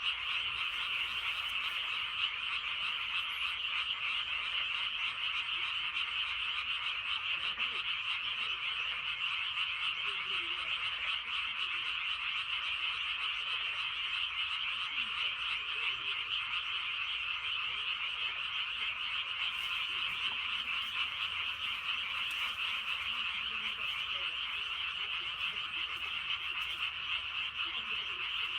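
Dense chorus of many frogs calling together from a flooded rice paddy, a steady, unbroken wall of calls with no pauses.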